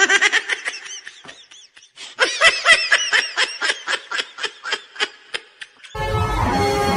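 A person laughing in two bouts of rapid, pulsing ha-ha-ha; the second bout is longer and fades out. Music comes in near the end.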